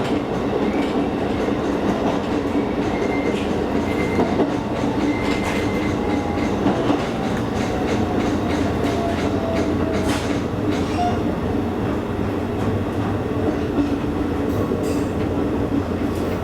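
Electric train running along the Kakogawa Line, heard from inside the carriage: a steady rumble of wheels on rail with a few sharp clicks and a faint whine sliding down in pitch around the middle.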